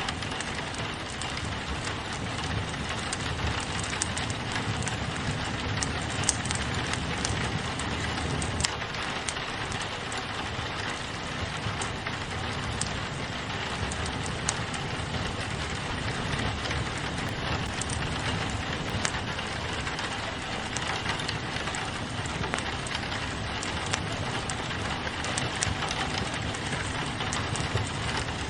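Steady rain pattering on a window, with a wood fire crackling under it in many small sharp pops.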